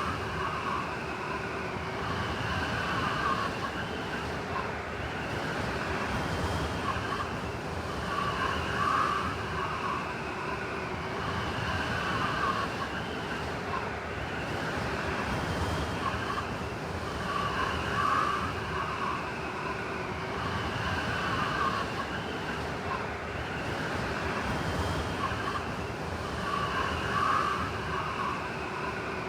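Blizzard wind: a steady rush of wind with a higher howling tone that swells and fades, repeating about every nine seconds.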